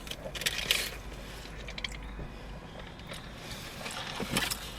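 Eating sounds: chewing, with short clicks and scrapes of food and packaging being handled. A few come in a cluster about half a second in and again near the end, over a steady low hum.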